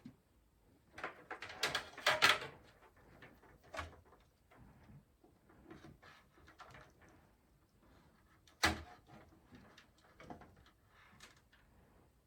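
Hands working on a PC case and its parts: a quick cluster of clicks and rattles about a second in, scattered light taps, and one sharp knock about two-thirds of the way through.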